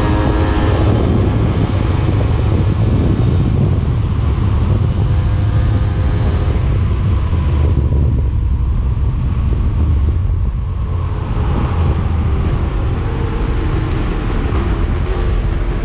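125 cc enduro motorcycle engine running hard while being ridden, its pitch rising and falling with the throttle, over heavy wind rumble on the microphone.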